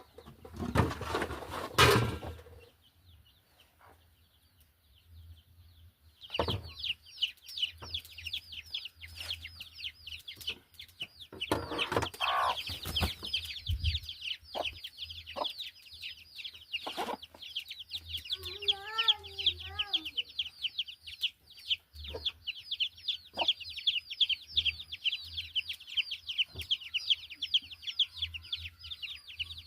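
Chickens calling: from about six seconds in, a steady run of rapid high peeps, with scattered knocks and a brief lower wavering call about two-thirds of the way through.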